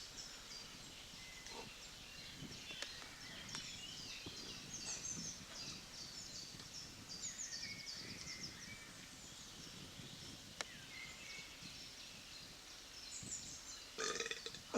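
Quiet outdoor ambience with small birds chirping and trilling in the background, and a single sharp click about ten and a half seconds in.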